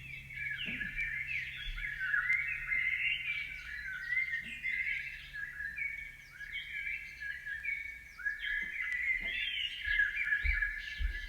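A flock of small birds chirping together: many short, downward-sliding calls overlapping without pause. A faint low hum stops about eight seconds in, and low bumps come near the end.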